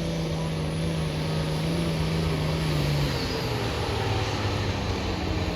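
Diesel-powered White pulling tractor's engine running hard under load, a steady note that drops lower about three seconds in as the engine slows. The run is going badly: the driver can't figure out what the tractor is doing.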